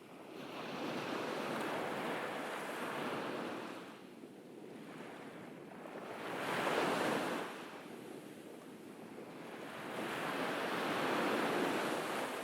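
Ocean waves breaking on a beach and washing back, three swells of surf that rise and fade about every four seconds, the loudest about halfway through.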